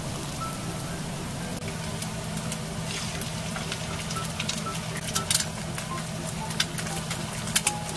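Shredded potato and carrot frying gently on low heat in a stainless steel pan: a soft, steady sizzle, with sharp pops and crackles scattered through the second half after an egg is cracked into the pan about three seconds in.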